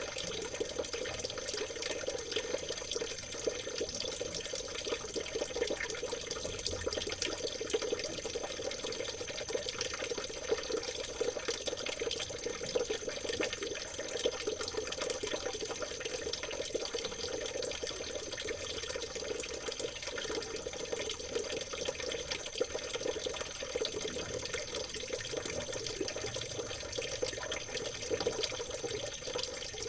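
Small river or stream water trickling and babbling steadily, an even splashing with many fine droplet ticks. A faint steady high-pitched tone sits above it.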